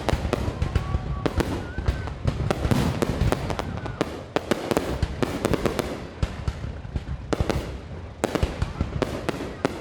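Fireworks going off in a rapid, continuous barrage of sharp bangs and crackles, with no pause.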